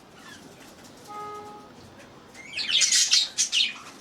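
Budgerigars chirping and chattering: a rapid run of shrill calls through the second half. A short steady tone sounds about a second in.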